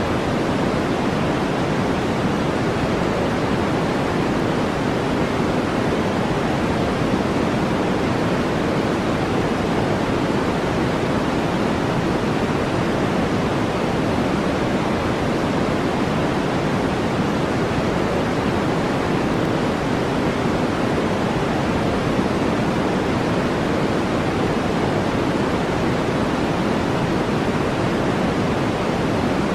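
Steady brown noise: an even, unchanging hiss weighted toward the low end, with no other sounds standing out.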